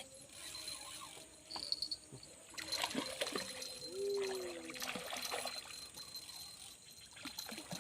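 Faint river water trickling, with a steady high insect chirr and a few small clicks.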